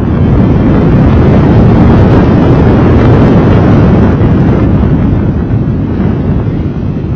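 Modified Renault Clio's engine running hard, with wind buffeting the car-mounted microphone. Loudest in the middle, easing a little near the end.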